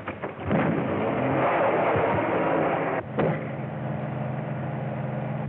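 Car engine revving and running with a noisy rattle. About three seconds in, it changes abruptly to a steady engine drone. The sound is on a thin, early-1930s film soundtrack.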